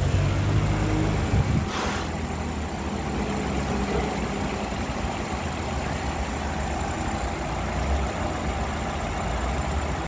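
Renault 2.5-litre four-cylinder petrol engine of a 2022 Koleos running at a steady idle. About two seconds in there is a brief rush of noise.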